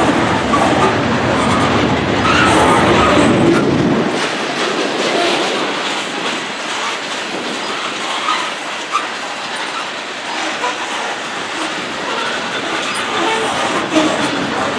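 Freight train of covered hopper cars rolling past, its wheels clattering over the rails in a steady, loud rush of noise. The deep rumble falls away about four seconds in.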